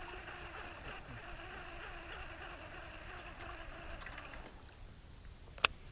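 Faint, steady running sound of a small boat moving on the water, easing off after about four seconds. A single sharp click comes just before the end.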